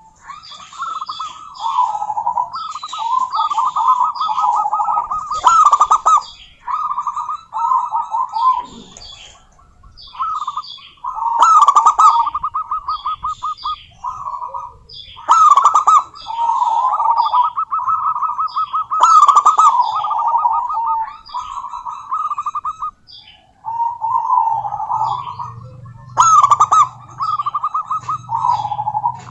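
Zebra dove (perkutut) calling: loud, rapid staccato cooing phrases repeated one after another, with higher-pitched chirping over them and a couple of short breaks.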